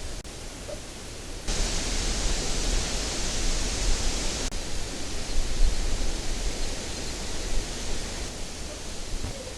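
Steady hiss with a low rumble underneath, of the kind heard in an outdoor field recording. A louder hiss cuts in abruptly about a second and a half in and cuts out again about three seconds later.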